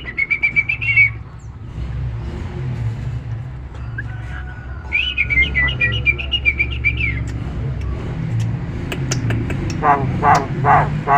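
Nias hill myna singing. A quick run of whistled notes comes at the start and a longer run follows in the middle, with a few lower notes near the end, all over a steady low hum.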